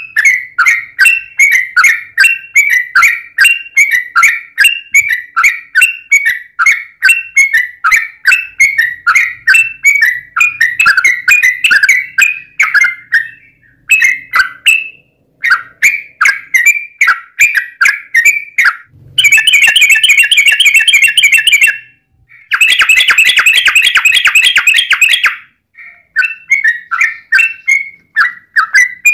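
Yellow-vented bulbul (trucukan) singing a long, fast run of short bubbling notes, several a second. About two-thirds of the way through, the song turns into two dense, harsher trills of a few seconds each, then the quick notes resume.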